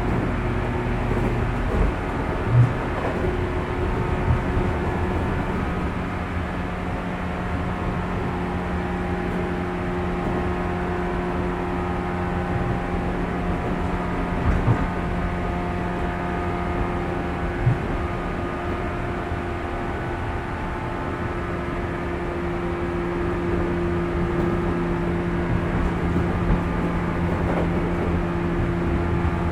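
Interior running sound of a JR 415-series electric multiple unit, heard in the motor car under the pantograph. The traction motors and gears hum at a steady pitch over the rumble of wheels on rail. A few short thumps come from the wheels passing over rail joints.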